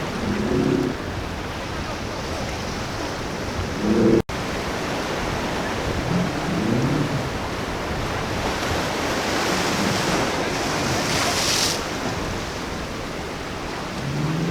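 Ocean surf breaking and washing at a rough inlet, with wind buffeting the microphone. A louder hissing wash builds from about eight seconds in and stops fairly sharply near twelve seconds.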